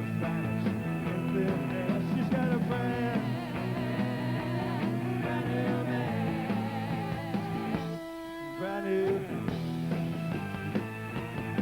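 Live garage-rock band playing an instrumental stretch of a song on electric guitars, bass and drums. About eight seconds in the bass and drums drop out briefly, leaving a single held note before the full band comes back.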